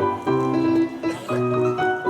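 Piano played four hands: a melody in the upper register over repeated bass notes, with new notes struck every fraction of a second.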